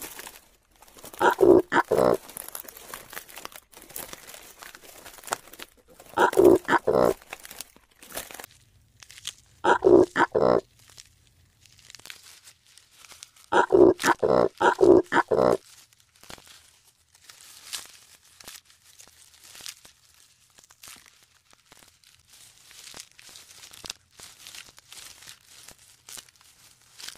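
An animal's grunting calls in four bouts of rapid pulses, a few seconds apart, with soft crackling and crunching between them.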